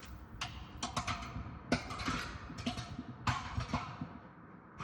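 A dropped object knocking against the walls of a deep vent shaft as it falls, a string of sharp knocks about every half second, each echoing and fading in the shaft.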